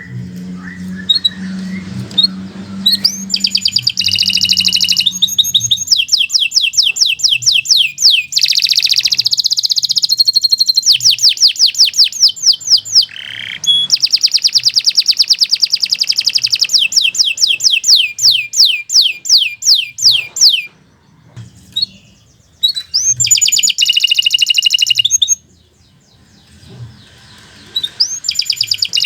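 Domestic canary singing a long song of rapid trills and rolls, with fast runs of repeated high notes that break off twice for a few seconds near the end.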